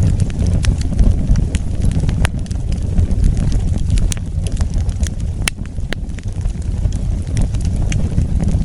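Wood fire burning: a steady low rumble of the flames with irregular sharp crackles and pops, two of them louder, about four and five and a half seconds in.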